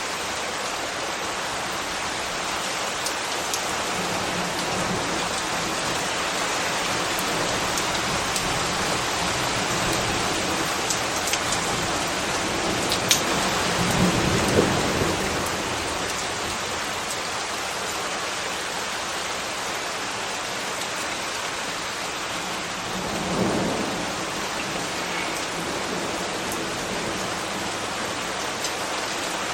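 Steady rain with scattered sharp drips. Twice, about halfway and again about three quarters through, a low swell rises and fades over a couple of seconds.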